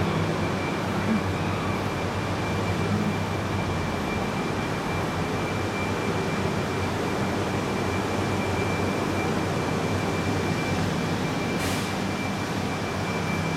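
Steady hum of a Shinkansen train standing at the platform with its onboard equipment running, with a thin high whine over it. A single short click comes near the end.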